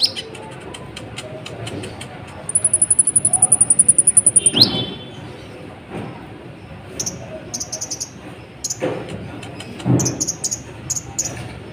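Kolibri ninja sunbird singing: a fast, very high trill lasting about two seconds, a quick sliding note, then a run of short high chirps in the second half. A few dull low thumps sound among the chirps.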